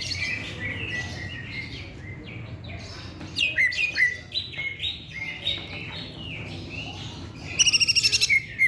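Green leafbird (cucak ijo) singing a varied song of sharp whistles and chirps with quick pitch slides. Near the end it breaks into a fast trill of about ten notes a second that lasts about a second, the loudest part.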